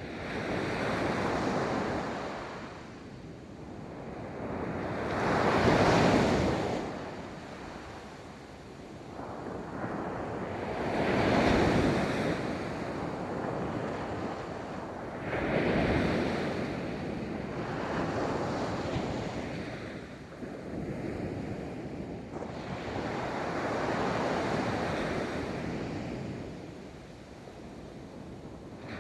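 Ocean waves breaking and washing up a beach, one after another roughly every five seconds, each surge of surf swelling to a rush and then fading back.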